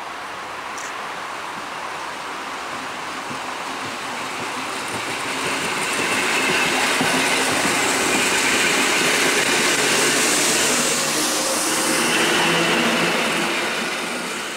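EN57 electric multiple unit running past along the platform. The running noise of its wheels on the rails grows louder about five seconds in as the cars come alongside, then stays loud.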